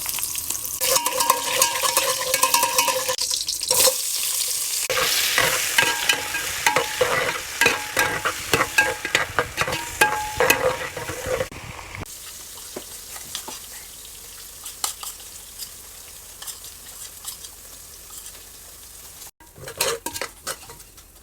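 Food frying and sizzling in a pot while being stirred, with many quick clicks and scrapes of the spoon against the pot. The sizzle is loud for about the first twelve seconds, then drops to a softer sizzle with occasional taps.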